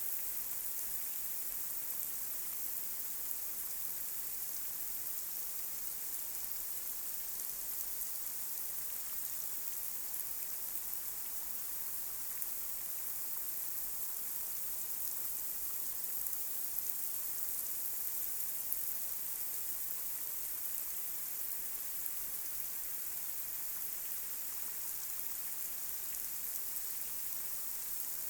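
Light rain falling on a street: a steady, even hiss, bright and high, with a few slightly louder drop hits near the middle.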